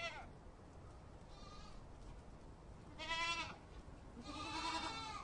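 Sheep bleating: a short call at the start, a faint one, then a louder call about three seconds in and a longer wavering one near the end.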